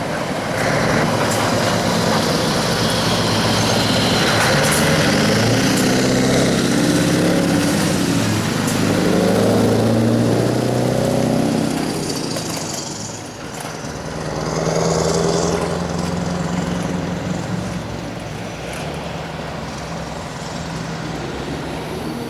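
Scania 4-series truck's V8 diesel engine running. The note climbs in pitch over the first ten seconds or so, drops away sharply, rises again, then settles to a steadier pull.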